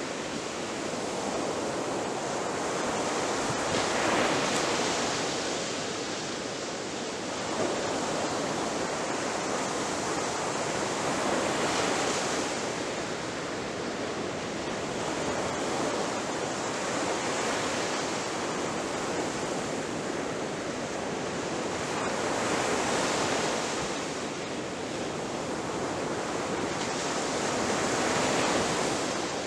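Ocean surf: a continuous hiss of waves breaking, swelling and easing every several seconds, about five surges in all.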